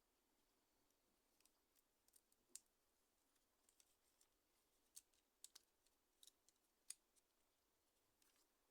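Faint, irregular small clicks and ticks of small tools and a mobile phone's plastic parts being handled during repair. The sharpest click comes about seven seconds in.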